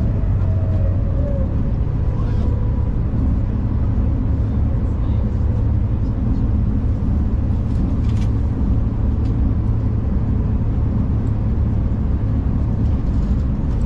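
Passenger train running at speed, heard from inside the carriage: a steady low rumble with the hiss of wheels on rail and a few faint clicks.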